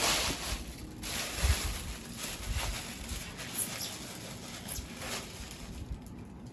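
Irregular rustling and scraping of packaging being handled, with a few soft knocks, the loudest right at the start and about a second and a half in.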